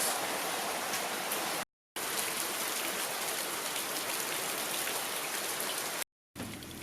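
Rain falling steadily, cutting out briefly twice. It is quieter after the second break.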